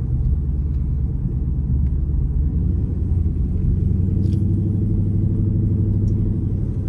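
2012 Dodge Charger SRT8's 6.4-litre HEMI V8 exhaust rumbling steadily while driving, heard from inside the car; the note deepens and strengthens about three seconds in.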